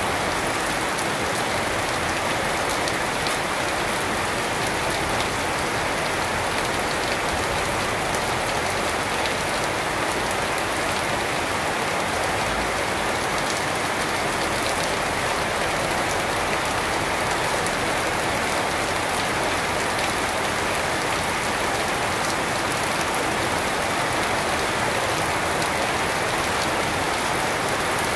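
Steady rain falling on garden foliage and a wet paved yard: an even, unbroken hiss with fine drop patter throughout.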